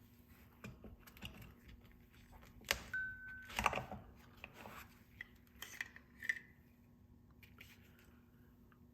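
Handling noise from unboxing a pistol case and its contents: scattered clicks, taps and rustles, with the loudest knocks about three and three and a half seconds in and a brief squeak between them.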